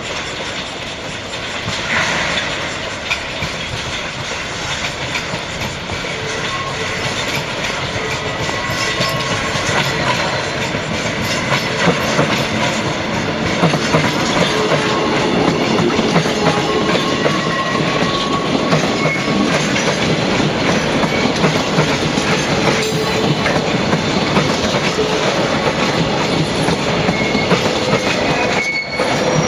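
DD51-hauled freight train rolling on the rails, the wheels clattering continuously and slowly growing louder. Thin wheel squeals come and go over the second half.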